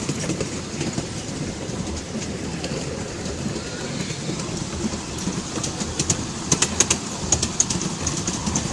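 Miniature railway train running along the track, heard from on board: a steady rumble of the wheels on the rails, with a quick run of sharp clicks about six to seven seconds in.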